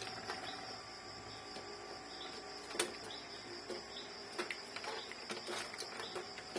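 Crickets chirring steadily in the background, with a few light clicks and taps from handling small plastic printer parts, the sharpest about three seconds in and several more in the second half.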